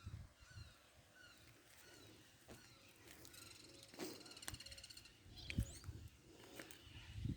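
Faint birds calling outdoors: a short chirp repeated a few times a second at the start, then a fast pulsing trill in the middle, with a few soft knocks.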